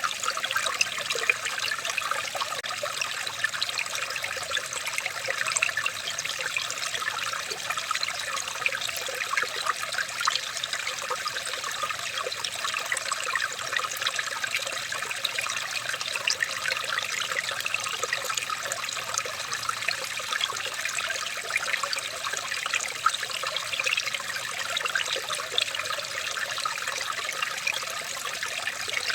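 Water trickling steadily, a continuous splashing made of many small drips and ripples.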